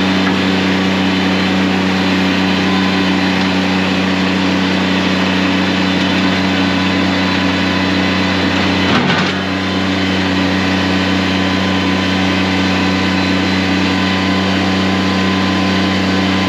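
Engine of a piece of construction equipment running loud and steady at constant speed, with a brief knock and a slight dip in level about nine seconds in.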